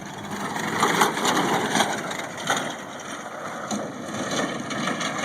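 Crunching and splintering with many sharp cracks, loudest in the first two seconds, as a truck is smashed in an attempt to roll it over.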